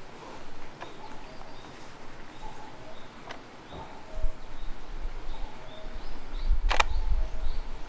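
Outdoor ambience: short faint chirps repeating every half second or so, a sharp click about three seconds in and a louder click near the end, with a low rumble on the microphone through the second half.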